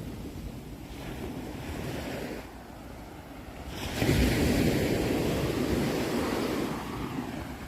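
Ocean waves on a shore: a steady rush of surf, with a wave breaking loudly about four seconds in and washing back out.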